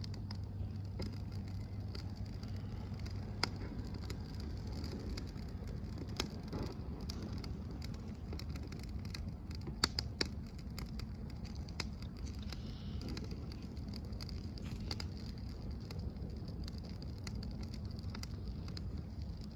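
Campfire crackling, with scattered sharp pops over a steady low background rumble, the loudest pair of pops about halfway through.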